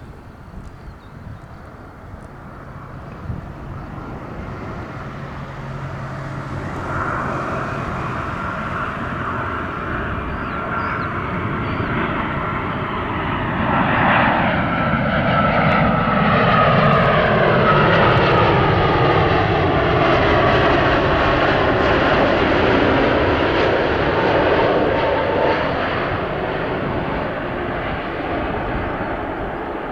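Jet engines of a Boeing 787 Dreamliner on landing approach, growing steadily louder as the airliner nears. Their whine drops in pitch as it passes overhead, and the sound eases off slightly near the end.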